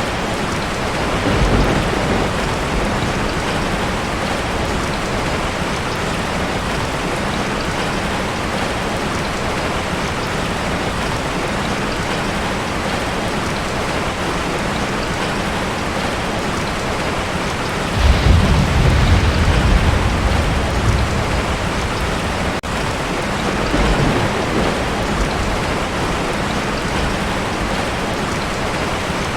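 Heavy rain falling steadily on a tin roof, with thunder: a short low rumble about a second and a half in, a louder rumble about eighteen seconds in that lasts a few seconds, and a weaker one a few seconds after that.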